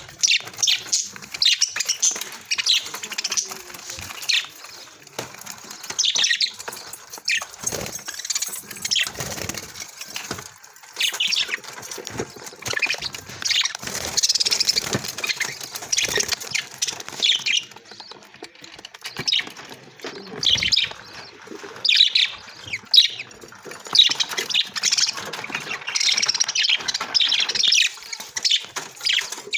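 Budgerigars chirping and chattering in quick runs of short, high calls with brief pauses.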